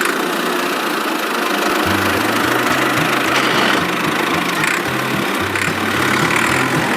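An engine running steadily with a dense, even rattle. From about two seconds in, a low rhythmic bass line of music comes in underneath.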